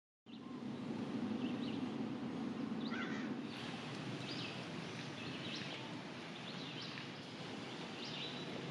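Birds chirping in short, repeated calls over a steady low hum of outdoor background noise.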